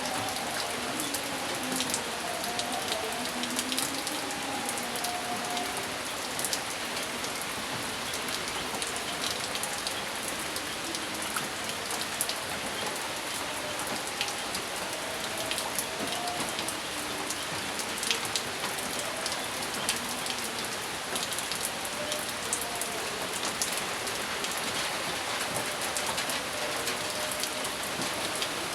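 Steady rain falling on a hard surface, with many sharp individual drop ticks over an even hiss; no thunder is heard.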